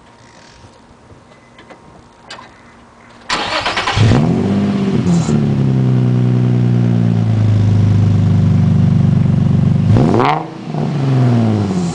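Nissan 350Z's V6 breathing through an Invidia exhaust and test pipes, started up: after a few seconds of near quiet with faint clicks, the starter cranks, the engine catches with a flare of revs, then settles into a steady idle. About ten seconds in, a quick rev blip rises and falls.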